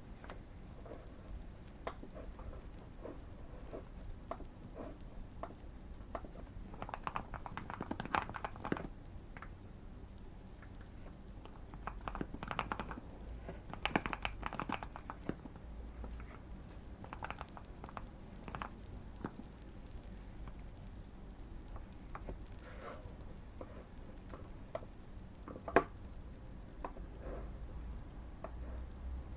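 Typing on a modded Keychron Q1 mechanical keyboard: bursts of keystrokes with short pauses between them, and one sharper click near the end. Light fire crackling runs underneath.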